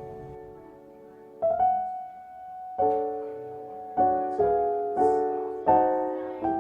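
Background piano music: slow chords struck every second or so, each ringing and fading away.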